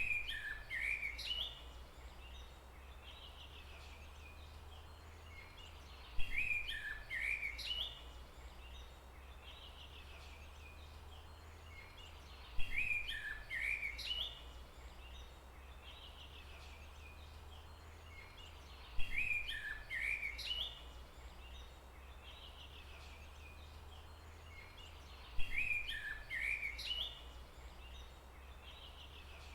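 A songbird's phrase of quick chirps and sweeps, about two seconds long, repeating identically five times roughly every six seconds, each time starting with a sharp click, over a steady low hum.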